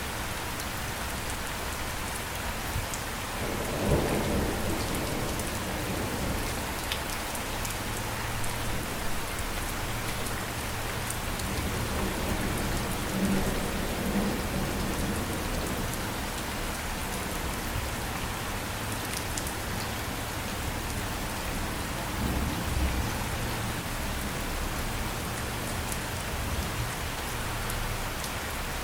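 Steady rain falling, with low rolls of thunder swelling about four seconds in, again around twelve to fifteen seconds, and once more a little past twenty seconds.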